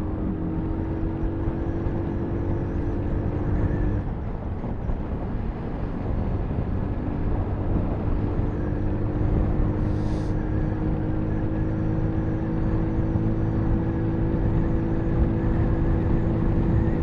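Sinnis Terrain 125cc single-cylinder motorcycle engine running steadily on the move, with a constant rush of wind and road noise. Its engine note drops away for a couple of seconds about four seconds in, then comes back and holds steady.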